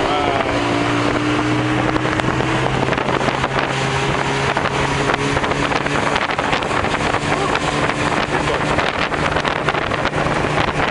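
A car driving along, its engine humming steadily under loud wind and road noise. The engine note shifts a little higher about halfway through.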